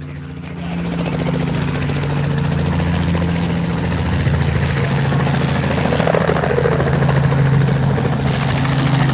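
Ride helicopter running close by, its rotor chop and engine growing louder over the first second and then holding loud and steady.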